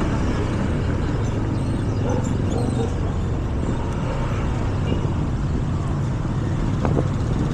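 Motor scooter running steadily at riding speed, with its engine under constant wind and road noise.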